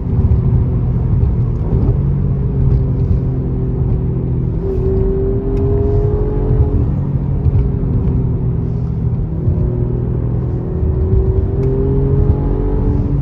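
Alfa Romeo Giulia Quadrifoglio's twin-turbo V6 and exhaust running under way, a steady drone whose pitch rises slowly twice as the car gathers speed.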